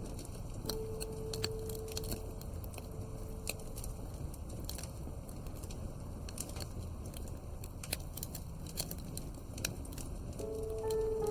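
Wood fire in a fireplace crackling, with irregular sharp pops and snaps over a low steady rumble. A soft sustained background-music note sounds early on and music tones return near the end.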